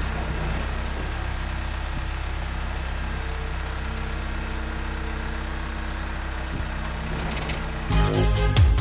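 A vehicle engine idling steadily with a low, even drone. Near the end, electronic dance music with a heavy beat cuts in.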